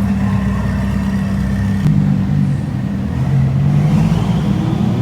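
A sports car's engine running at low revs, with a deep, steady exhaust note that drops in pitch about two seconds in, then wavers and rises a little near the end.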